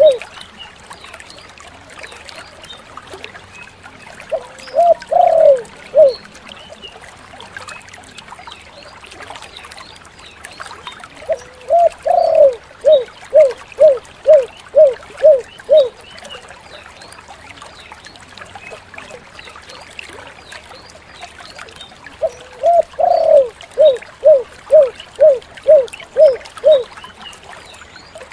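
Spotted dove (tekukur) cooing: three phrases, each a drawn-out opening coo followed by a run of short, evenly spaced coos, over a faint steady background hiss.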